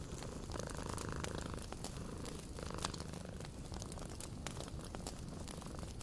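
Cat purring steadily, a low pulsing rumble, with the scattered sharp pops of a wood fire crackling.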